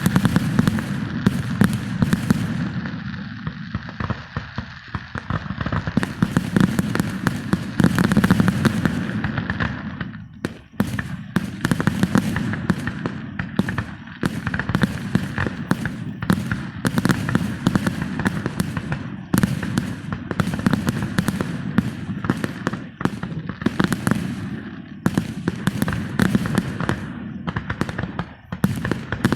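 Fireworks going off: a dense, continuous run of rapid crackling pops and bangs, easing briefly about ten seconds in.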